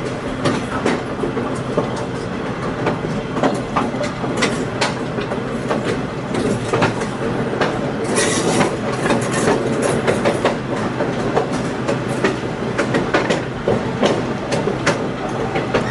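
Passenger train rolling along the track: a steady rumble with irregular clicks and knocks from the wheels and the car, and a louder hiss for a second or so about halfway through.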